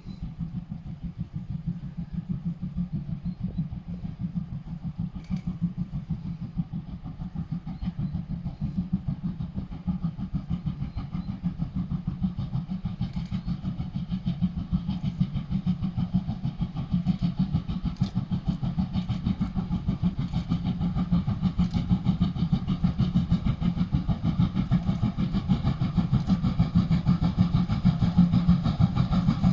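Steam locomotive 50 3516, a DR class 50.35, working under steam with a rapid, even beat of exhaust chuffs, growing louder through the stretch.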